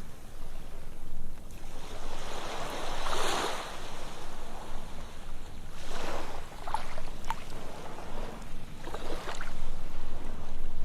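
Ocean waves washing onto a sandy beach, with surges of hissing surf about every three seconds and a few small splashes.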